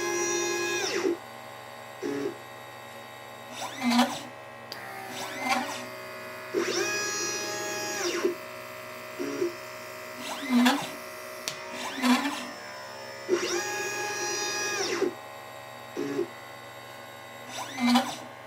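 LitePlacer pick-and-place machine's stepper motors whining as the head moves, the pitch rising at the start of each move and falling at the end. The same pattern repeats about every six and a half seconds, three times in all: one long traverse followed by several short moves, the rhythm of placing capacitors and resistors one after another.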